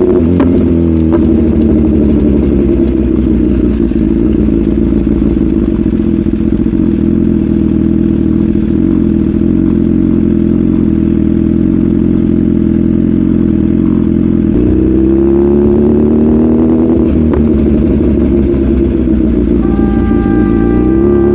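BMW S1000RR's inline-four engine running at a steady cruising pitch, then rising in pitch as it accelerates about two-thirds of the way in and again sharply near the end.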